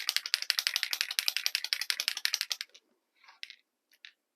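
Small craft ink spray bottle being worked rapidly: a fast, even run of sharp spritzing clicks about ten a second that stops abruptly a little past halfway, followed by a few faint short rustles and taps.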